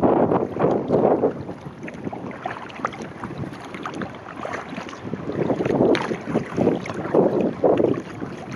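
Sea kayak being paddled: water splashing and sloshing in repeated surges from the paddle strokes and against the hull, calmer for a few seconds in the middle, with wind buffeting the microphone.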